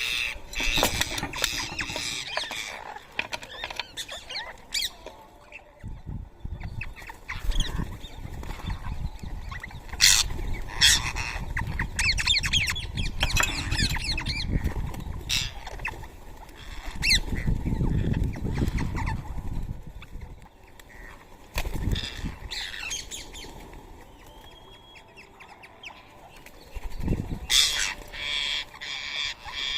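Rose-ringed parakeets calling with shrill squawks and chatter, broken by sharp clicks, over a low rumble through the middle stretch; the calling dies down for a few seconds near the end, then picks up again.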